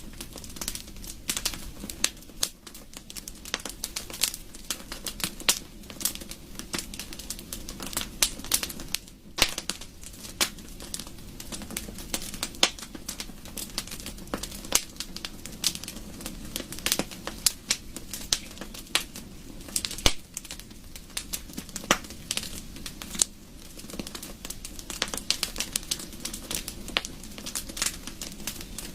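Wood fire crackling in a fireplace: irregular sharp pops and snaps, several a second, over a steady soft rush of the burning flames.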